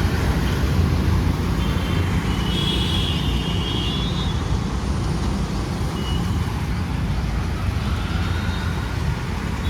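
Steady rumble of road traffic, with a few brief faint high tones about two to four seconds in.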